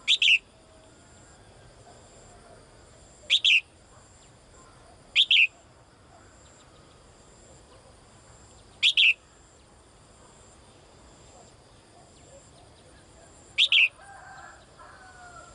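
Female songbird calling: five short, sharp double chirps, repeated every few seconds at an irregular pace. These are a female's contact calls to a male.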